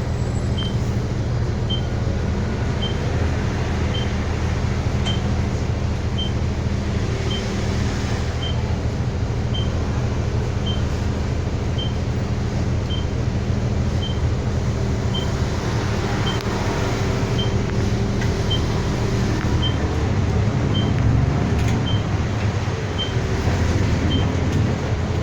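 City bus running, heard from inside the cabin: a steady low engine hum with road noise, and a short high-pitched beep repeating about once a second.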